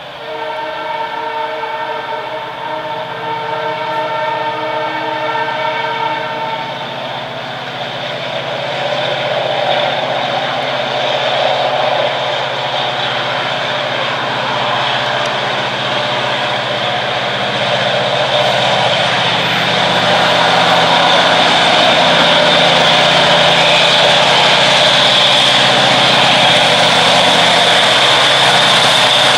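Locomotive horn sounding one long chord of several tones for about seven seconds as a freight train approaches, then the noise of the oncoming train growing steadily louder as it draws close.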